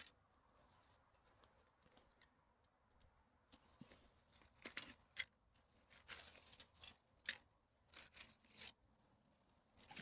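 Faint, irregular rustling and crackling of dry forest litter and plastic being handled. A few scattered crackles at first, then denser clusters from about three and a half seconds in.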